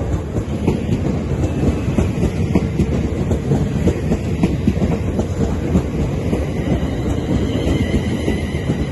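A train passing close by on the rails, a steady heavy rumble with wheels clattering over rail joints. A faint high whine comes in near the end.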